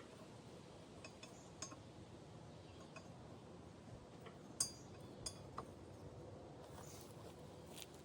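Faint scattered light clicks over low room noise, with two sharper, brief clinks about halfway through.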